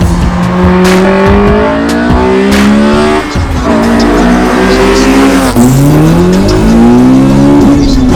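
Honda Civic Type R (FN2) K20 inline-four engine accelerating hard: its note climbs in pitch, drops at a gear change about three seconds in and again a little over five seconds in, then climbs once more.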